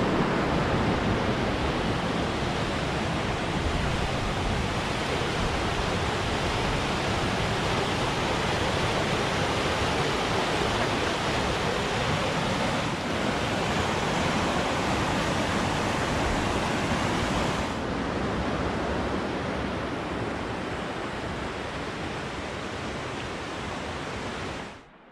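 Avalanche Creek's fast water rushing: a steady, loud, even noise that cuts off suddenly near the end.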